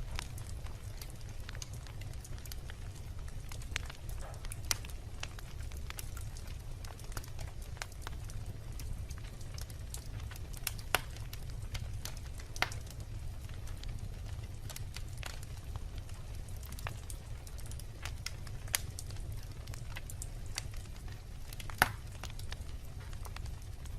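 Wood campfire burning, with irregular sharp crackles and pops over a steady low rumble; a few pops stand out louder, one about halfway through and one near the end.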